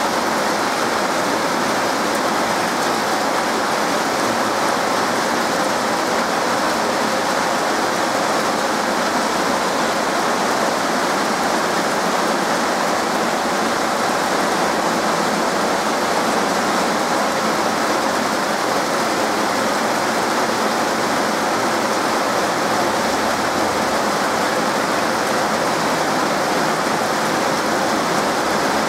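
Heavy rain pouring down steadily on trees, roofs and pavement: a dense, even hiss that does not let up.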